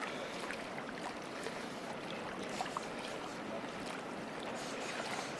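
Steady rush of flowing river water, with a few faint small ticks.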